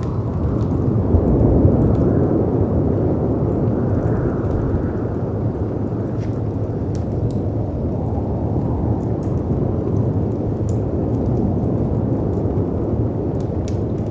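Layered storm ambience: a steady low rush of wind and sea waves, swelling a little a second or two in, with small pops and crackles of a wood fire scattered over it.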